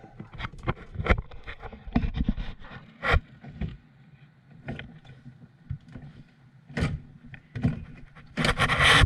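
Irregular knocks, clicks and scrapes of objects being handled, with a brief louder rushing noise near the end.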